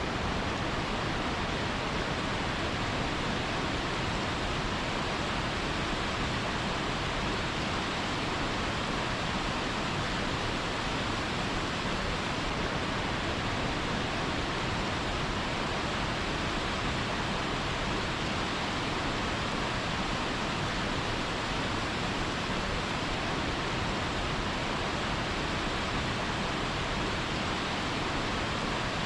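Steady rush of fast-flowing water, an even noise that does not change.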